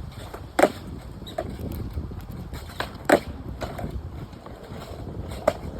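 Skateboard wheels rolling over pavement with wind on the microphone, broken by two sharp board clacks about half a second in and about three seconds in, and a few lighter knocks.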